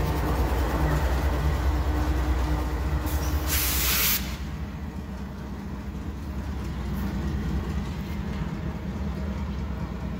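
Freight train rumbling, with a short burst of hiss about three and a half seconds in. The sound then drops suddenly to a quieter, steady low rumble.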